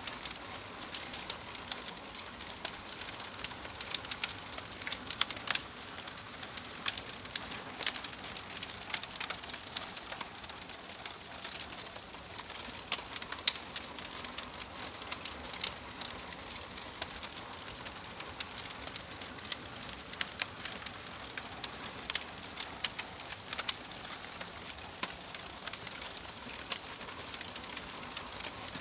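Wood fire in a fireplace crackling: a steady soft hiss with frequent irregular sharp pops and snaps.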